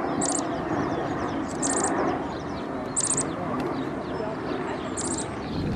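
A small bird calling: four short runs of quick, high chirps about every second and a half, over a dense background murmur that cuts off near the end.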